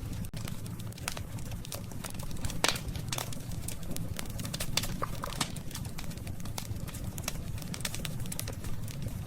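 Wood campfire crackling: irregular sharp pops and snaps over a steady low rumble of burning, with one louder pop a little under three seconds in.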